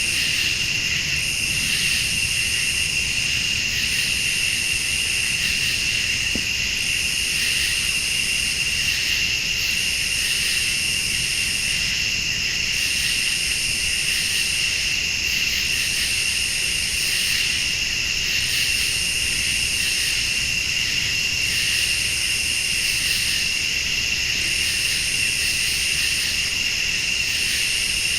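A chorus of crickets and late-summer night insects: one steady high trill holds throughout. A higher-pitched insect call comes in repeated phrases, each about a second and a half long, roughly every two and a half seconds.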